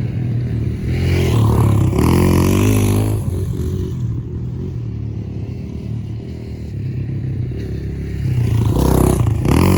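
Pit bike engine running, revved up about a second in and again near the end, easing off to a lower, quieter run in between.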